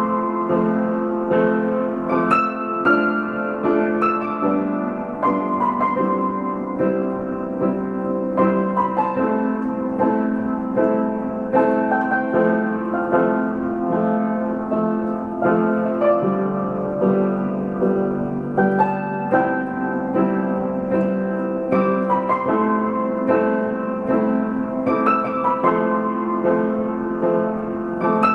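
Solo piano playing a flowing melodic piece, with notes struck one after another over a sustained, ringing accompaniment.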